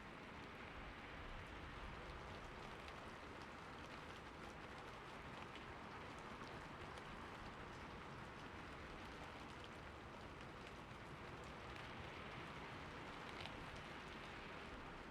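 Steady rainfall in a forest, an even soft hiss of rain with scattered individual drops ticking on surfaces.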